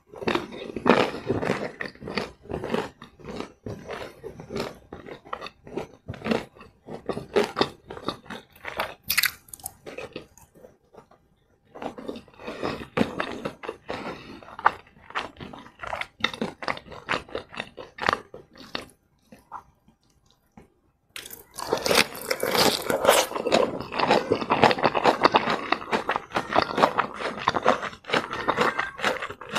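Close-miked chewing of crispy fried chicken: moist crunching and crackling of the battered coating, pausing briefly twice, then louder and denser crunching through the last third.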